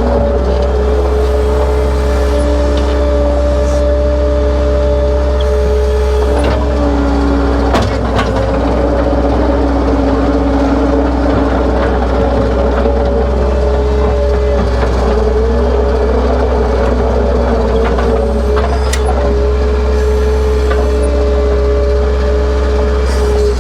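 A motor running steadily at an even speed, with a constant hum and low rumble.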